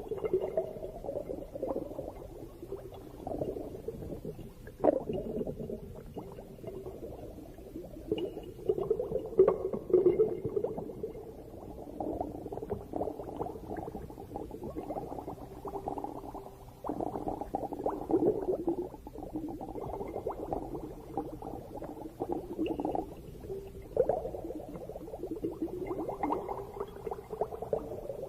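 Underwater bubbling and gurgling water in uneven surges, with a sharp click about five seconds in.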